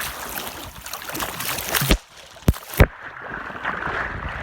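Swimming-pool water splashing and sloshing close to the microphone, then three sharp knocks about two seconds in, after which the sound turns muffled.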